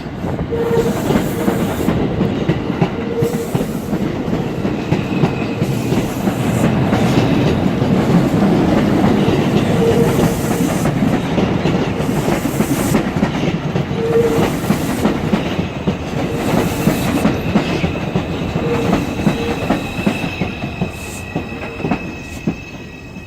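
New York City R142 subway train running into a station, its wheels clattering rhythmically over the rail joints. Near the end the noise eases and a steady high whine from the train's propulsion comes up as it slows.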